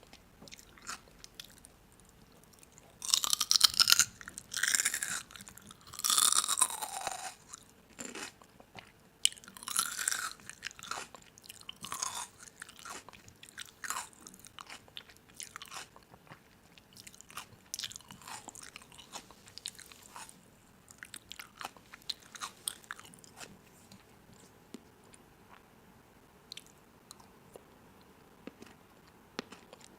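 Someone chewing and biting crunchy food: scattered crisp crunches and clicks, with three louder bursts about three to seven seconds in.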